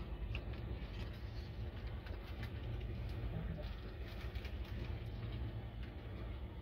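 Steady low rumble of a passenger train running, heard from inside the coach, with scattered light ticks.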